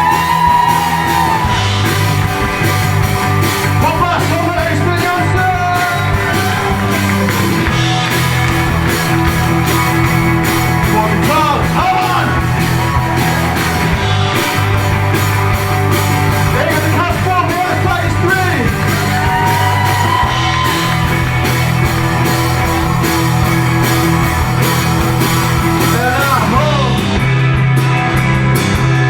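Indie rock band playing live: a sung lead vocal over electric guitars, bass guitar and drums.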